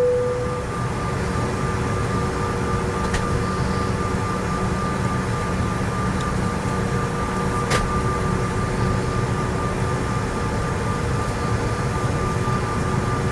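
Steady cabin drone of a CRJ-900's rear-mounted General Electric CF34 jet engines at low power before takeoff, with a few steady whine tones running through it. The last note of a cabin chime fades out at the very start, and two faint clicks come through later.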